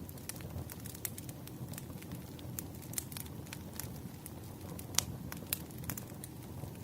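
Wood fire burning in a fireplace, with a steady low rumble and frequent sharp crackles and pops, the loudest pop about five seconds in.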